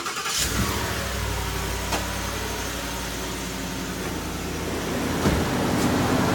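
Ford F-150's 5.0 L V8 running at a steady idle, with a few sharp clicks over it and a hiss that grows louder toward the end.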